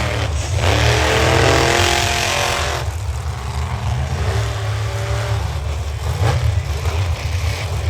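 Monster truck engine running with a deep steady rumble, revving hard for about two seconds near the start, then dropping back. A sharp crack comes about six seconds in.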